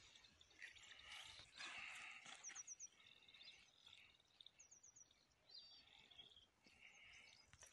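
Near silence: faint outdoor background with small birds chirping, including a quick run of four short high notes heard twice.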